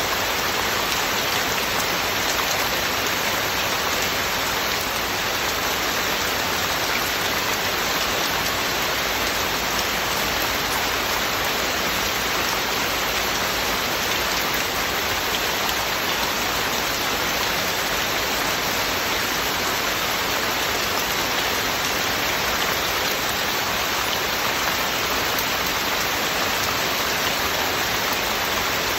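Heavy, steady rain falling and pattering on surfaces, an even wash of noise with no thunder.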